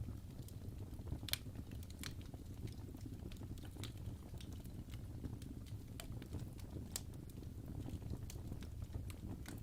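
Wood fire burning in a fireplace, the logs crackling: irregular sharp pops and snaps, a few louder ones, over a steady low rumble of the flames.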